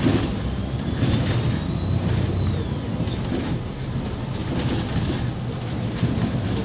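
Cabin of a MAZ 203.065 city bus on the move: a steady low engine and road rumble, with the body and fittings rattling and knocking now and then.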